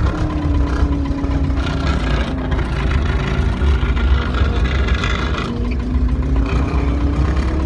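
An old farm tractor's engine running steadily; its pitch sags slightly for a few seconds and comes back up near the end. A hiss joins in for a few seconds in the middle.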